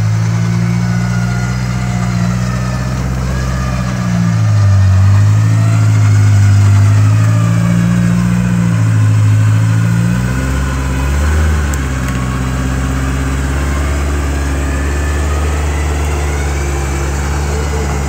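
Off-road 4x4's engine running close by, its pitch rising and falling with the throttle for several seconds, then settling to a steady run for the rest of the time.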